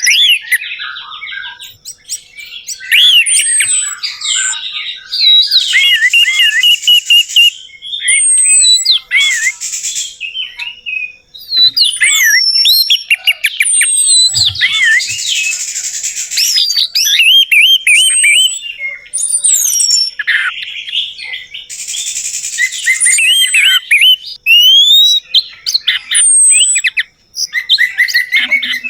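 Orange-headed thrush (anis merah) singing a fast, varied song of high whistled notes that glide up and down, broken several times by harsh, scratchy passages.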